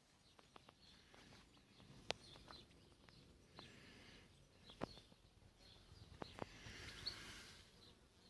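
Faint outdoor quiet with distant birds chirping now and then, and a few sharp clicks.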